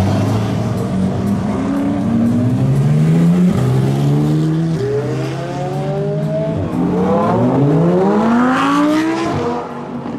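Supercars accelerating hard away one after another: a McLaren's twin-turbo V8 and then a Lamborghini Huracán's V10 revving up through the gears. The pitch climbs and drops back at each upshift, with a second, steeper run of rising revs in the last few seconds.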